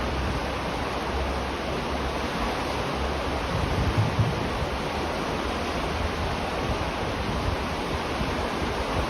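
River water flowing steadily, an even rushing noise, with a brief low rumble about four seconds in.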